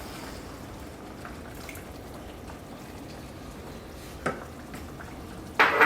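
Wine-and-garlic pan sauce sizzling steadily on high heat as lemon juice goes in. There is a light tap about four seconds in and a short, louder burst of noise near the end.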